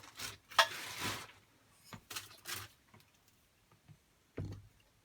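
Intermittent clicks, scrapes and clatter of tools and metal parts being handled as a car alternator is taken off, in short bursts with quiet gaps between.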